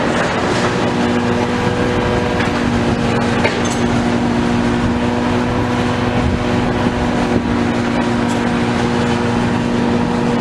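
A large engine running steadily at constant speed, a steady drone over a rough rumbling noise.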